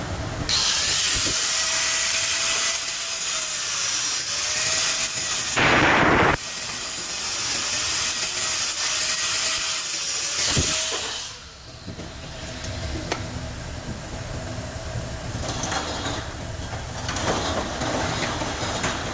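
A power tool runs for about ten seconds, its pitch wavering as the load changes, with a short louder burst near the middle, then stops. Quieter knocks and clicks of parts being handled follow.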